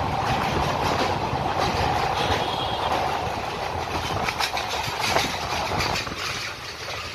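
Express passenger coach running at speed on steel rails, heard from its open door: a steady wheel-and-rail rumble with clickety-clack over the rail joints. A few sharper clacks come in the second half, and the noise eases a little near the end.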